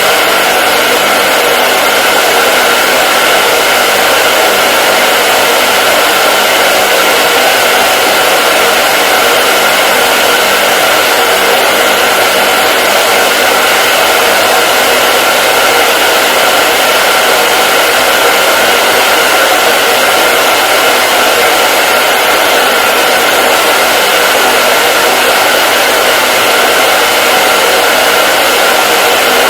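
Hair dryer running continuously at a steady speed: a loud, unchanging rush of blown air over a faint motor hum.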